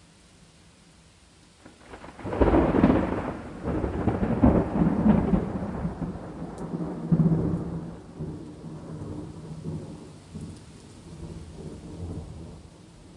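A thunderclap breaks about two seconds in, crackling loudly for several seconds, then rolls on as a low rumble that slowly fades. Steady rain hisses faintly underneath throughout.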